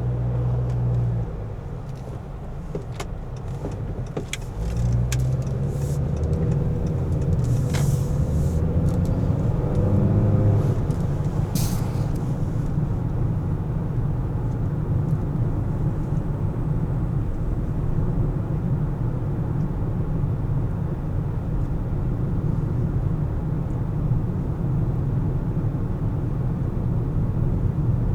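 Car driving in city traffic: a low engine and tyre rumble that grows about five seconds in, as if pulling away, then holds steady. The engine note rises briefly around eight to ten seconds, with a few light clicks before it and a short high squeak just after.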